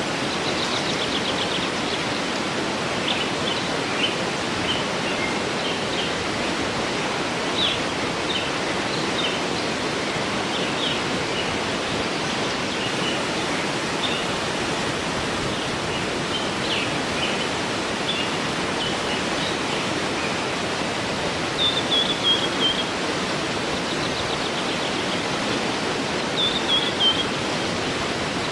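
Steady rushing of a waterfall with small birds chirping over it: short high calls scattered throughout, and twice near the end a quick run of falling notes.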